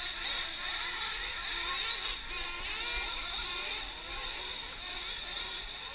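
Several 1/8-scale nitro RC trucks' small two-stroke glow engines buzzing around the track, their high pitches rising and falling as they speed up and slow down.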